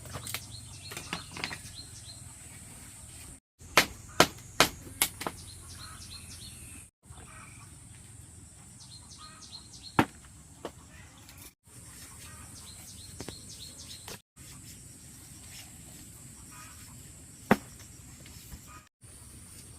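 Sharp knocks of hand tools striking wood or bamboo: a quick run of four strikes about four seconds in, then single strikes later. A steady high insect drone runs behind them.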